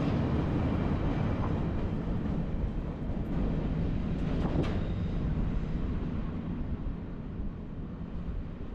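Train rumbling low and steady, fading gradually as it moves away, with a few brief clicks about four and a half seconds in.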